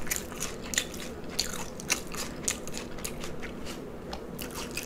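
A person chewing a mouthful of food very close to the microphone: wet chewing with many short, irregular mouth clicks.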